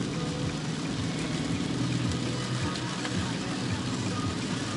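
Heavy rain pelting a car, heard from inside the cabin over the steady low hum of the running car.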